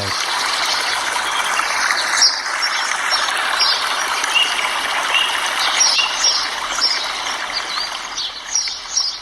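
Running water from a stream, with small birds chirping again and again over it; the water grows a little softer near the end.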